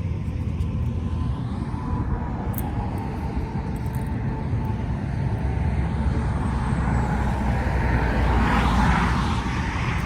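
Road traffic passing: a steady low rumble of vehicles, with one passing louder about eight or nine seconds in.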